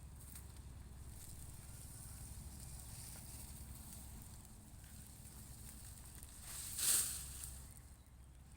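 Cattle grazing in the open: faint rustling and light crunching over a low steady rumble, with one short hissing rush of air about seven seconds in.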